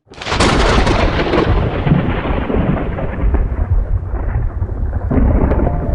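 Loud rumbling, hissing noise of the narrow-gauge steam train on the move, starting suddenly; the hiss fades over the first few seconds while the rumble goes on.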